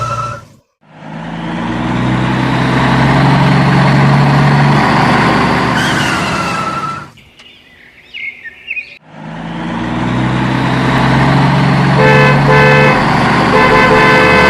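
Vehicle engine sound, swelling in over the first couple of seconds and running loud, cutting out for about two seconds midway and then starting up again. Near the end a horn honks twice.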